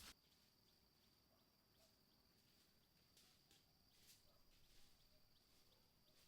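Very faint forest ambience: a steady high-pitched insect drone, with a few short, faint chirps scattered through it.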